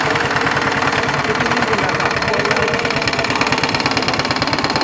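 Honda scooter engine fitted in a homemade fibreglass speedboat, running steadily with a fast, even beat.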